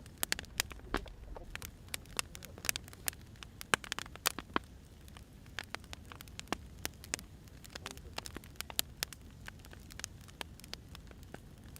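Wood fire crackling: irregular sharp pops and snaps, several a second, over the low steady rumble of burning logs.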